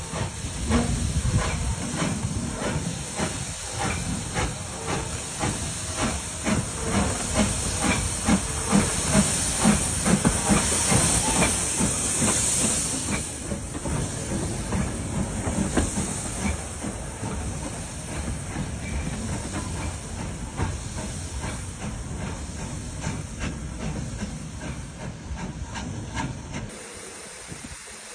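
Steam tank locomotive working away under steam: a steady run of exhaust chuffs over loud steam hiss. It is loudest about a third of the way in, then fades as the engine draws off.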